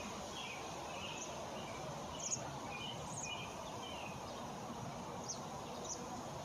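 Small birds chirping, many short calls scattered throughout, over a steady background hiss.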